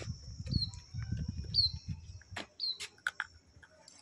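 A small bird chirping, short falling high notes about once a second, over a faint steady high hiss. A rough low noise runs under the first half and stops about two seconds in, and a few sharp clicks follow.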